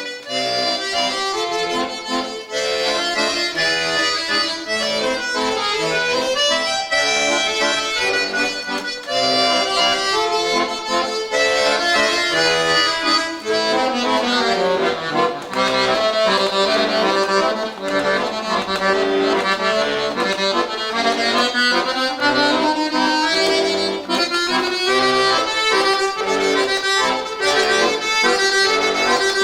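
Bayan (Russian button accordion) playing a waltz solo, with no backing track, melody over chords. It gets louder and fuller about nine seconds in.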